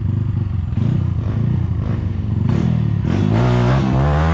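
Trail motorcycle engine running on a muddy trail, revving up with a rising pitch in the last second or so.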